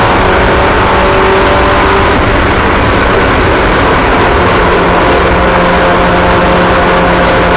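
Several race car engines running at once, loud and steady, with their tones holding level and overlapping.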